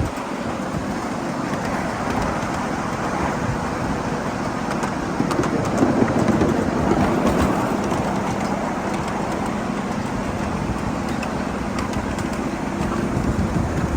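Steady rolling noise of a 7.5 inch gauge ride-on train running along its track, with faint scattered clicks.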